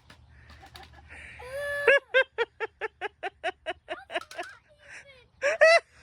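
High-pitched laughter: a rising squeal about two seconds in breaks into a quick run of giggles, about four a second, with another loud burst of laughing near the end.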